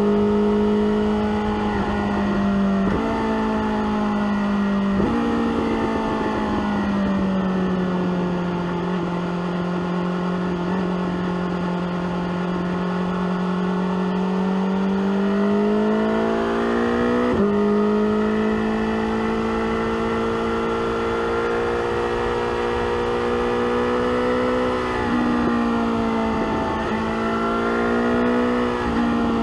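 BMW S1000R inline-four engine with an SC-Project exhaust pulling under way. Its note breaks abruptly a few times at gear changes, sags slowly in pitch through the middle stretch, and jumps sharply higher about seventeen seconds in.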